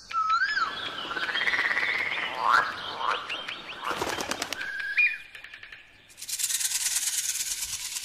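Recorded wildlife sounds: birds calling with whistled, gliding notes and short rising chirps over a rustling noise. About six seconds in comes a dense, high-pitched buzzing trill lasting about a second and a half.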